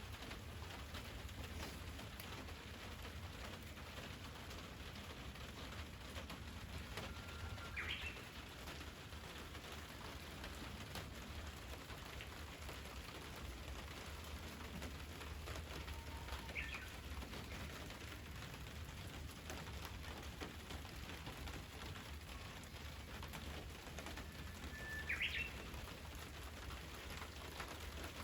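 A bird singing the same short phrase four times, about every eight or nine seconds: a held whistle that jumps up into a brief higher flourish. Underneath is a steady low hum with faint scattered ticks.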